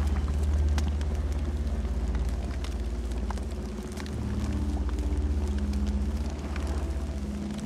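Campfire burning: scattered crackles and pops of burning wood over a steady low rumble.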